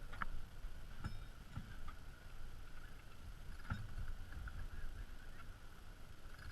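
Wind buffeting the microphone and water moving against a small sailboat's hull, with a few light knocks.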